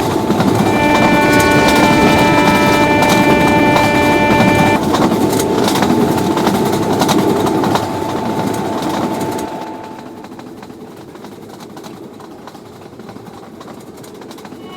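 Locomotive horn held on several notes for about five seconds, broken briefly just after it starts, then the loud rushing noise of a fast train passing with repeated knocks of wheels over the rails, which drops to a quieter rumble about ten seconds in.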